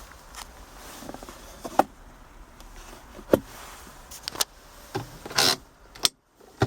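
Plastic console fittings in a car's cabin being handled: several sharp clicks and a short sliding rub, typical of a console ashtray lid and cigarette lighter being opened and worked.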